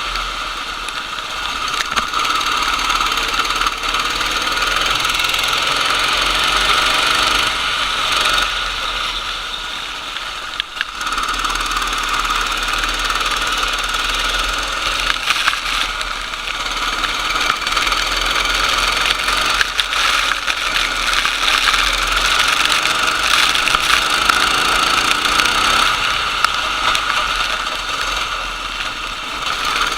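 Racing kart engine running hard. It eases off and picks up again about ten seconds in and once more near the end, as the kart brakes and accelerates out of corners.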